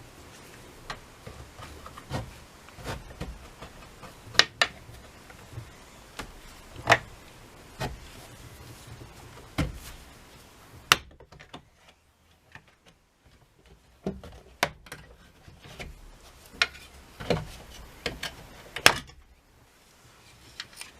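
Irregular sharp clicks and knocks of small hard parts and tools being handled, with a near-quiet pause about halfway through.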